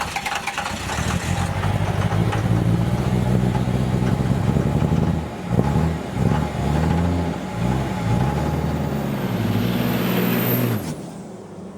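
Truck engine running and then revving up and down several times, stopping abruptly near the end.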